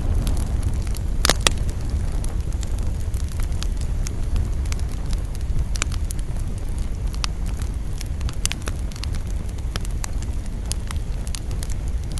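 Campfire burning: a steady low rumble of the flames with scattered crackles and pops of burning wood, and two sharp pops close together about a second and a half in.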